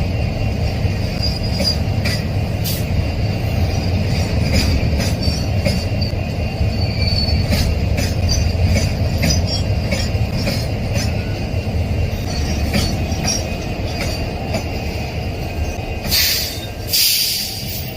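Train rolling past close by: a steady rumble of wheels on rail with frequent clicks over the rail joints and a faint high wheel squeal. Two short bursts of hiss come near the end.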